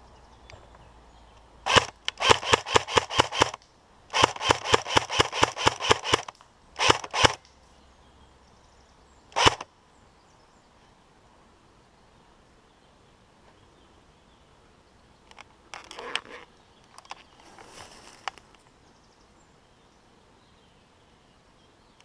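Airsoft replica gun firing rapid single shots, about five a second: a short string, then a longer string, then two shots and one last shot. Fainter, more distant shots come later.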